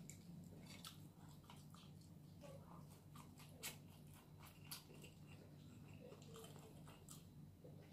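Faint chewing of a mouthful of food, with scattered soft clicks and small crunches and two slightly louder ones near the middle, over a low steady hum.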